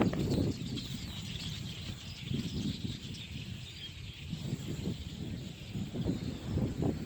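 Dense, continuous chatter of a very large flock of birds over open fields, with wind buffeting the microphone in gusts.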